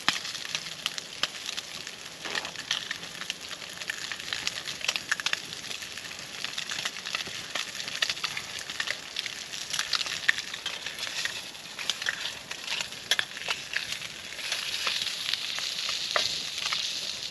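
Slices of SPAM frying in hot oil in a small skillet over a campfire: a steady sizzle with dense crackling pops, growing louder near the end.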